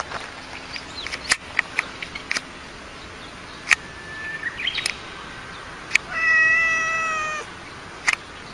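Domestic cat giving one long, drawn-out meow, slightly falling in pitch, about six seconds in. Scattered sharp clicks come before it.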